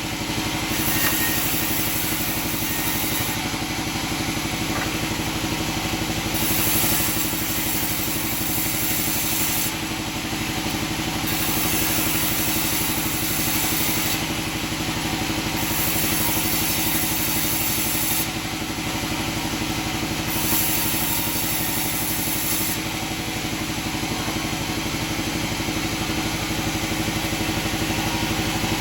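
Sawmill machinery running steadily: an even, engine-like drone with a high hiss that comes and goes every few seconds.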